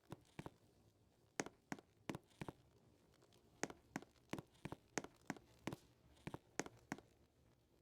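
A string of about twenty short, sharp clicks and crackles at an irregular pace, some coming in quick pairs.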